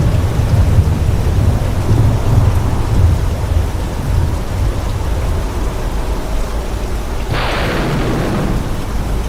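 Steady rain with rolling thunder: a low rumble through the first few seconds, then a sudden sharper crack of thunder about seven seconds in that fades away.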